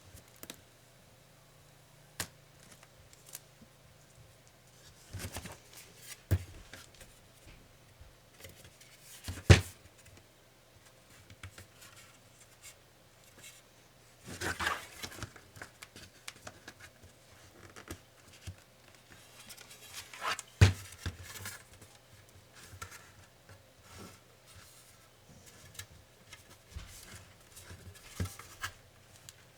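Hand-disassembly of a laptop: irregular sharp clicks, taps and short scrapes of small tools and plastic and metal parts being pried and handled, with two louder clicks about a third and two-thirds of the way through.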